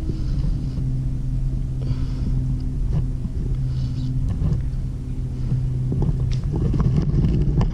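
An engine running steadily at a constant speed, a low hum with a rumble underneath, with a few light knocks near the end; it cuts off abruptly.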